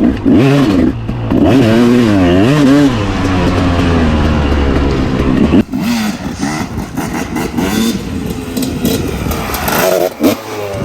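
250 two-stroke dirt bike engine revving hard, its pitch rising and falling with the throttle. The sound cuts off sharply about halfway through, then the engine carries on rougher, with another rev near the end.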